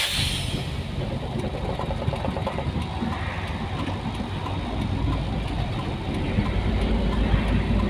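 Nissan Diesel container truck's diesel engine running with a steady low rumble that grows a little heavier over the last couple of seconds.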